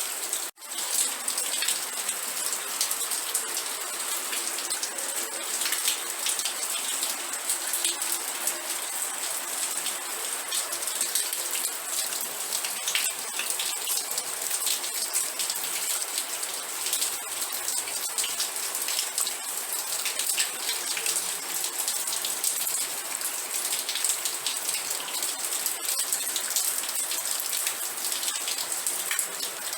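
Steady rain falling, a continuous hiss dense with individual drops striking a surface. The sound cuts out for an instant about half a second in, then resumes unchanged.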